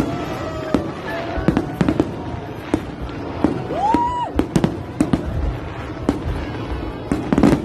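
Fireworks display: sharp bangs going off about twice a second, with a few whistles gliding up in pitch between them.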